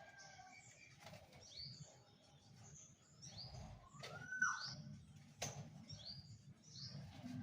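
Small birds chirping: repeated short, high, falling chirps, with one whistled note that rises and falls about four seconds in. Two sharp clicks come around the middle.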